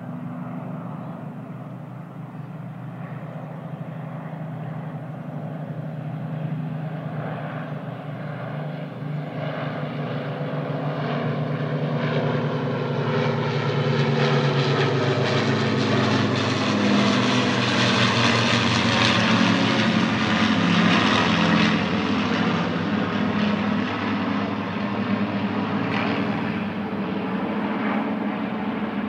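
Second World War piston-engined propeller aircraft from the Lancaster, Hurricane and Spitfire flypast passing overhead, a steady engine drone. It grows louder, is loudest about two-thirds of the way through, then eases off slightly.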